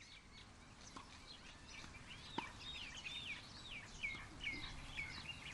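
Small birds chirping, then a run of about eight clear whistled notes, each sliding downward, in the second half.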